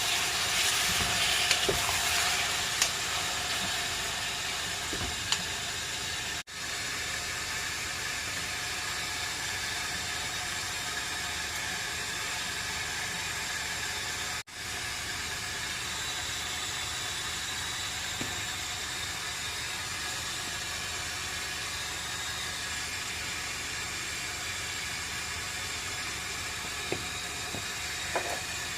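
Chicken adobo sizzling steadily in a pan, an even hiss, with a few light utensil clicks in the first seconds. The sound drops out for an instant twice.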